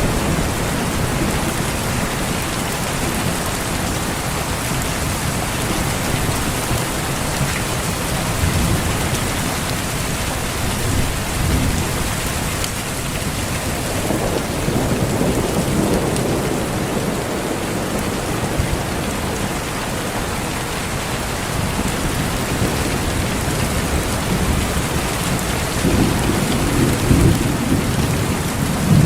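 Steady heavy rain pattering on foliage, with rolls of thunder rumbling underneath that swell about halfway through and again near the end.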